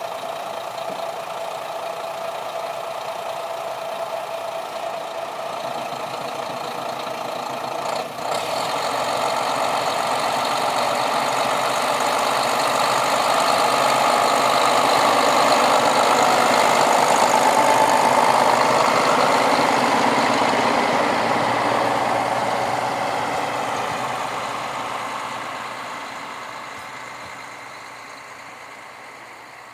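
Diesel railcar engine running as a train draws near and passes, growing steadily louder to a peak a little past the middle and then fading away, with a short click about eight seconds in.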